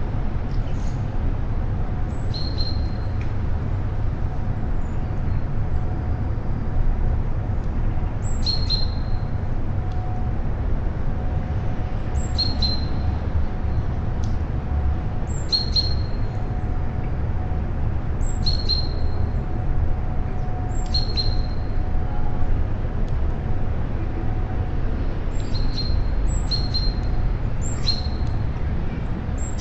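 A bird calling over and over, about every three seconds and a little faster near the end. Each call is a quick downward sweep ending on a short high note. Under it runs a steady low rumble.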